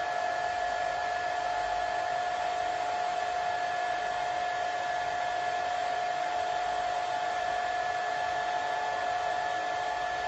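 Hair dryer running steadily: a constant rush of air with a steady whine of the motor and fan.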